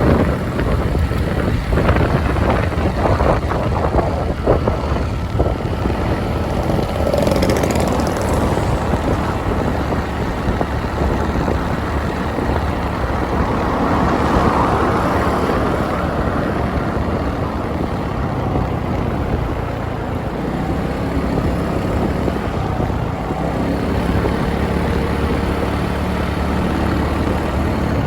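A motorbike riding along a road: steady engine and road noise, with a louder swell about halfway through.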